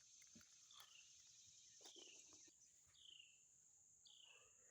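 Near silence with faint outdoor wildlife: a steady high insect buzz, and a short falling chirp repeating about once a second.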